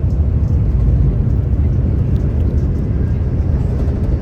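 Haramain high-speed train running at speed, heard from inside the passenger cabin as a steady low rumble.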